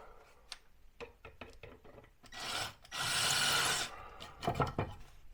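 Wood rubbing and scraping against wood, with light knocks and clicks of handling. A short scrape comes about two seconds in, then a longer, louder one about three seconds in.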